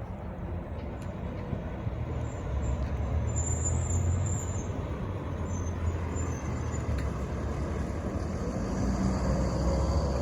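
Garbage truck's diesel engine running as it approaches, a low rumble that grows louder about two seconds in, with a brief high squeal around the middle and a rising whine near the end.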